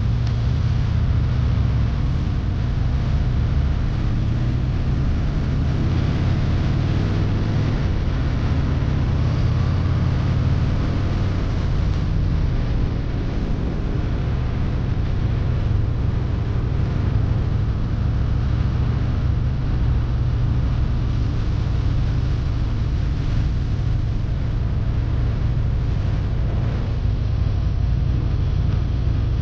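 Yamaha Virago V-twin motorcycle engine running steadily under way, heard from the rider's seat, with a steady rush of wind noise over it.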